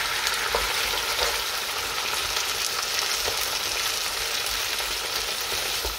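Rabbit pieces with chopped onion and garlic sizzling in hot olive oil, stirred with a wooden spoon: a steady frying hiss with small crackles and spoon scrapes.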